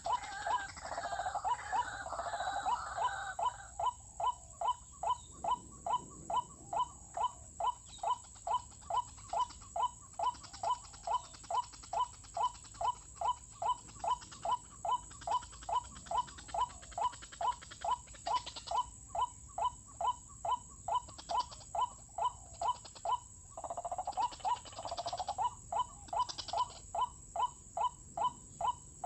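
White-breasted waterhen calling: a long, monotonous series of short rising notes, about two a second, with a denser jumble of overlapping calls near the start and again toward the end.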